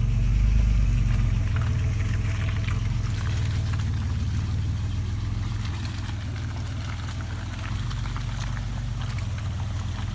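Car engine running with a steady low drone that starts abruptly.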